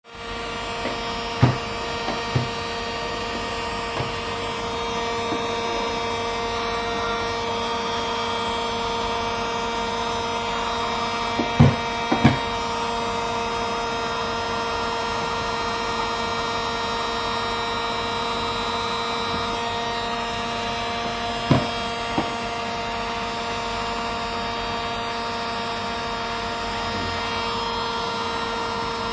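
A steady machine hum holding one fixed pitch, with a few sharp knocks or taps: two early on, a pair about twelve seconds in, and one more a little over twenty seconds in.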